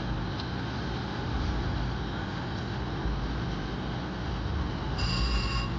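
Steady low background din of a casino floor full of slot machines, with a short electronic slot-machine chime of several high tones about five seconds in.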